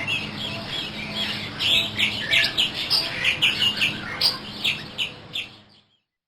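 Several small birds chirping and twittering in a quick run of short chirps over a low steady hum. The sound fades out about a second before the end.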